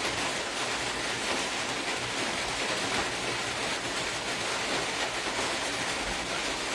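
A steady, even hiss with no breaks or distinct events.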